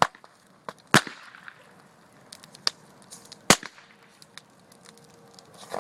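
Firecrackers packed inside an old computer going off in a fire: several sharp bangs at irregular intervals, the loudest about a second in and again past the middle, with small crackles between.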